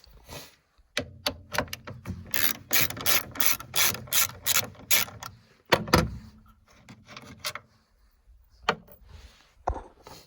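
Hand ratchet clicking in a steady run, about four to five clicks a second, as a tailgate cable bolt on a John Deere Gator is worked loose, followed by a heavier knock about six seconds in and a few scattered clicks and knocks.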